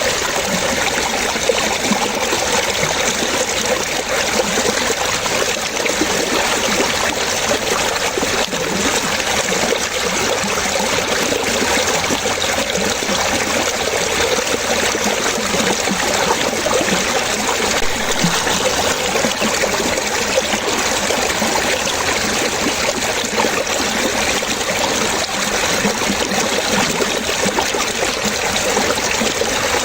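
Running water splashing and trickling steadily, like a stream, with no pauses or changes.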